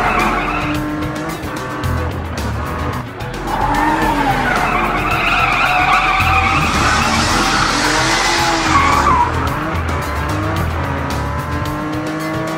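Cartoon race-car sound effects: an engine revving up and down, with a hissing tyre screech about two-thirds of the way through as the car spins its wheels and pulls away, over background music.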